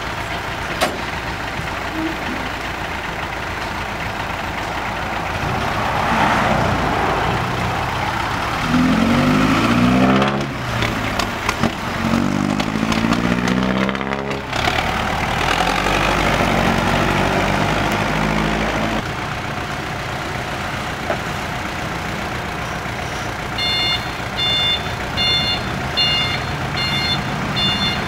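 Six-wheel dump truck's diesel engine running, revved hard three times in long rising-and-falling pulls as the truck tries to drive out of the mud. Near the end a reversing alarm starts beeping about twice a second.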